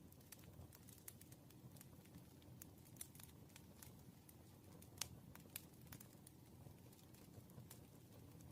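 Near silence with faint pen-and-paper desk sounds while working through practice questions: scattered small ticks and taps over a low room hum, the sharpest tap about five seconds in.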